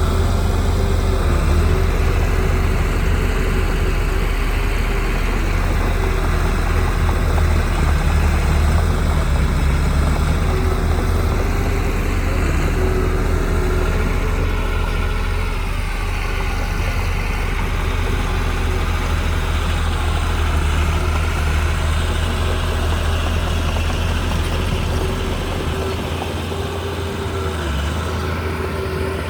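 Heavy diesel engine of earthmoving machinery, a bulldozer or dump truck, running steadily with a low drone. The pitch shifts slightly partway through.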